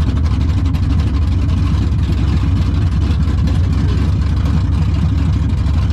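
LS-swapped V8 in an OBS Chevy truck idling steadily through its newly fitted exhaust with a deep, even rumble, just after a cold start on a frosty morning.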